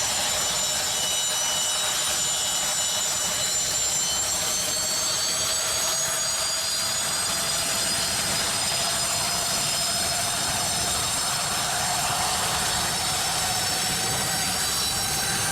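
Mi-26 helicopter's gas-turbine engines whining during start-up and warm-up, several whine tones slowly rising in pitch over a steady rush as the turbines spool up.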